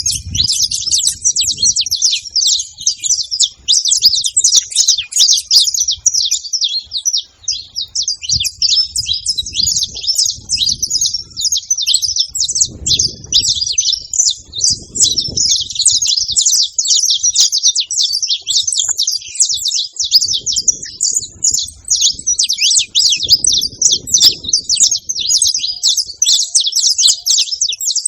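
Saffron finches chirping and calling nonstop at a feeder: a dense stream of rapid, overlapping high notes.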